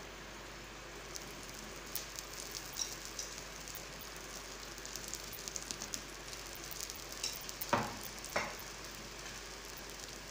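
Puran poli frying in ghee on a hot tawa: the ghee sizzles steadily with scattered small pops, and two short, louder knocks come about three quarters of the way through.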